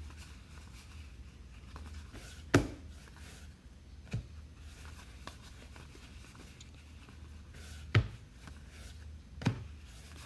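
Trading cards being handled on a table: faint rustling over a low steady hum, with four sharp taps, the loudest about two and a half seconds in and again about eight seconds in.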